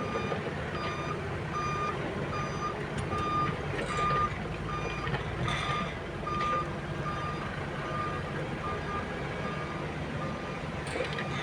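Heavy-equipment backup alarm beeping about twice a second over the steady rumble of a diesel engine running, the beeps fading out near the end.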